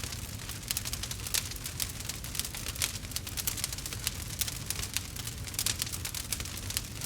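Campfire crackling: many irregular sharp pops and snaps, some in quick clusters, over a low steady rumble.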